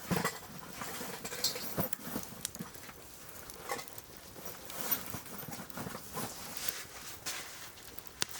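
Wood fire crackling, with irregular sharp pops and clicks.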